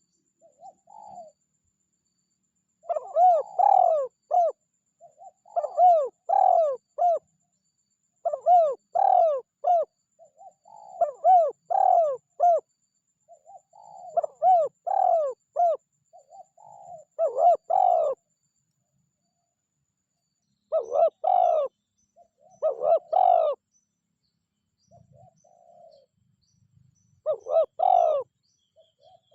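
Spotted dove cooing its repeated call: a phrase of several rising-and-falling coos every two to three seconds, with a longer pause about three quarters of the way through.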